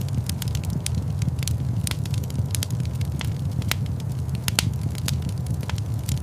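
Fire in a fireplace crackling, with irregular sharp pops of varying strength over a steady low rumble.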